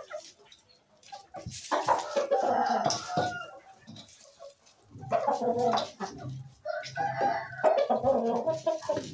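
Bantam chickens calling, including a rooster crowing, in two loud stretches: one about a second and a half in, and a longer one from about five seconds in.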